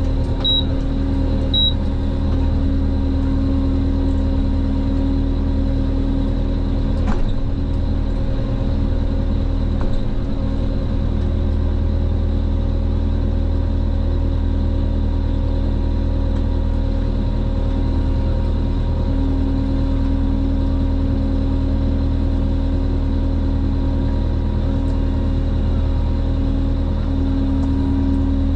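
Kubota M135GX tractor's diesel engine running steadily at a constant speed, with two short high beeps about half a second and a second and a half in.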